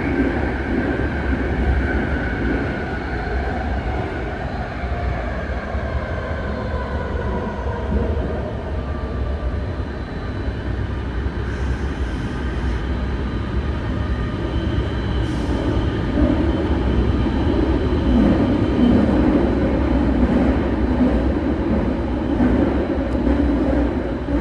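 BART train running between stations, heard from inside the car: a steady rumble of wheels on track with a propulsion whine that falls in pitch over the first ten seconds or so, then a steady higher tone and a louder rumble later.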